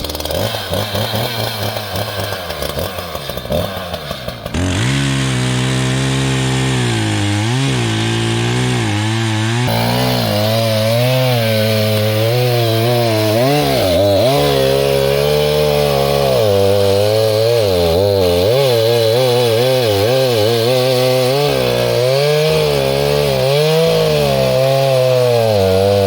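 Sawzall (reciprocating saw) cutting through a downed log, its motor pitch wavering up and down under load. It gets louder and steadier about four seconds in.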